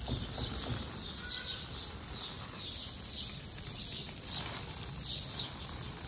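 A bird chirping over and over, short high falling chirps about two or three a second, with a brief thin whistle about a second in and a few soft low knocks.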